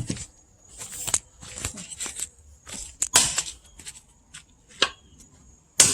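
Hammer blows on steel wedges driven into a log: two hard strikes, one at the start and one near the end, with smaller cracks and snaps of the wood splitting between them.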